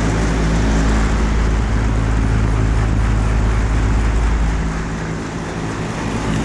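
Johnson Controls commercial air conditioner running: a steady hum from the compressor and motors under the rush of its condenser fan blowing hot air out. A heavy low rumble eases about three-quarters of the way through.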